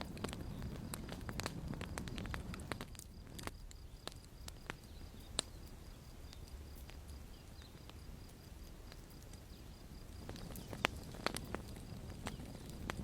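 Campfire burning: wood crackling with irregular sharp pops over a low rumble of flames. The loudest pops come about five seconds in and again near eleven seconds.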